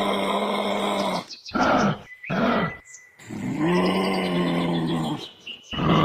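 An animal calling with low, drawn-out calls: two long ones of about a second and a half, with shorter calls between them.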